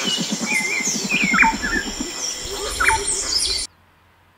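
Birds calling: repeated whistled calls that drop sharply in pitch, over a steady high hum and a fast low pulsing chatter. It all cuts off suddenly near the end.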